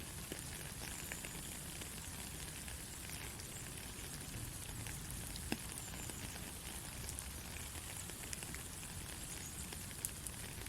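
Soft, steady rain: an even hiss of light rainfall with many small scattered drop ticks, and a couple of sharper single drips, one about halfway through and one near the end.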